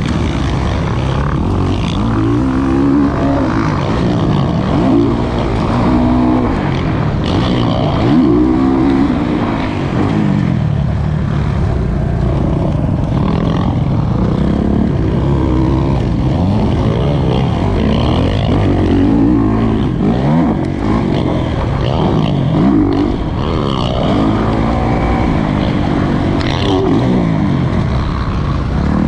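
Kawasaki KX450 single-cylinder four-stroke motocross engine being ridden hard, its pitch rising under throttle and falling back again every second or two as the rider accelerates and shuts off.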